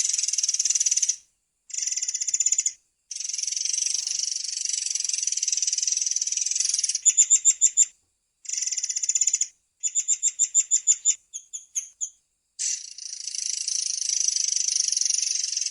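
Long-tailed sibia (murai air) singing long, fast, high trills broken by brief pauses. Twice in the middle the trill gives way to a run of loud, evenly spaced repeated notes, about seven a second.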